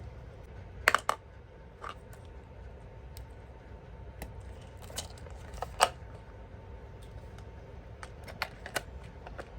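Irregular sharp clicks and taps of small hard objects being handled, loudest about a second in and near six seconds in, over a faint steady hum.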